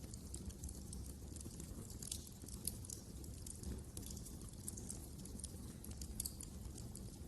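Wood fire crackling in a fireplace: irregular small pops and snaps over a low, steady rumble of the flames.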